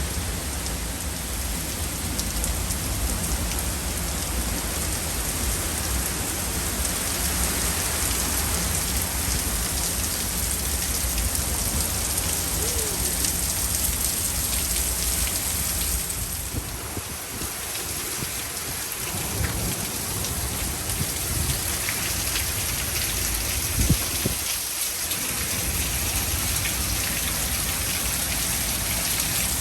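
Heavy rain pouring steadily in a severe thunderstorm, with a deep low rumble under it through the first half that eases off briefly past the middle.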